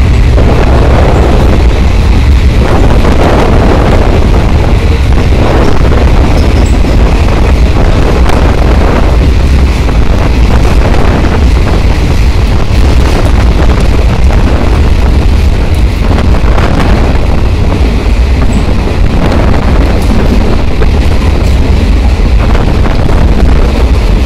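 Passenger train running at speed through a railway tunnel, heard from the open door of a coach: a loud, steady rumble of wheels on track and rushing air, swelling and easing every second or two.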